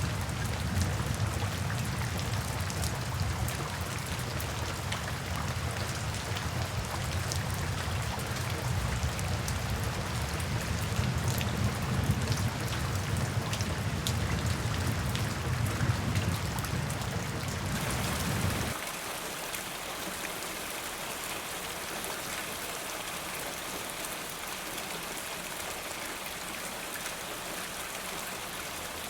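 Steady rain falling, a dense hiss of many small drop ticks over a deep low rumble. About two-thirds of the way through, the sound changes abruptly: the rumble drops out and the rain goes on as a thinner, slightly quieter and brighter hiss.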